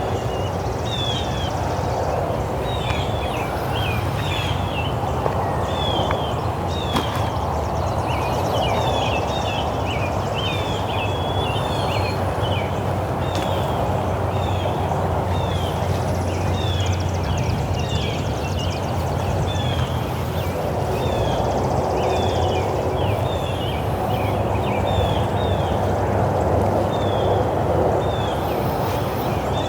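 Morning birdsong: many short chirps and whistled notes from several birds, almost without pause, over a steady low background rumble.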